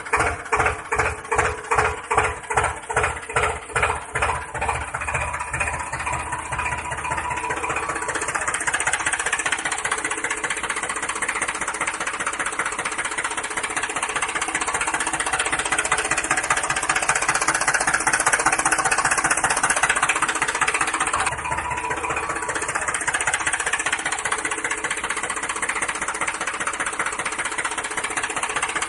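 An engine chugging in slow, even pulses that blur after several seconds into a steady, fast run.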